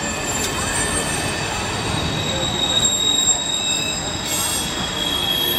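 A double-stack intermodal freight train rolling steadily through a level crossing, its cars rumbling over the rails with thin, high-pitched wheel squeal.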